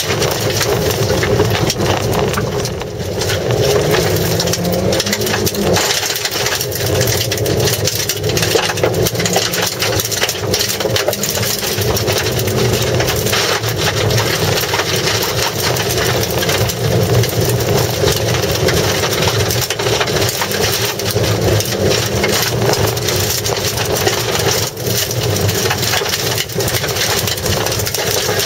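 A Mazda Demio's engine, heard from inside the cabin, revving hard under full throttle on a gravel course, with stones and grit rattling against the underbody. The engine note climbs and then drops about six seconds in.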